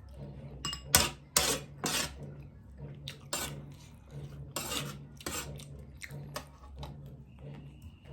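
Dishes and utensils clinking and clattering in a string of sharp knocks, the loudest in the first two seconds.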